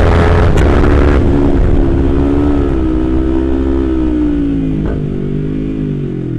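Kawasaki Z250's parallel-twin engine running through an aftermarket Prospeed exhaust, its note sinking slowly as the rider rolls off the throttle and the bike slows. Wind rumble on the helmet microphone eases along with it.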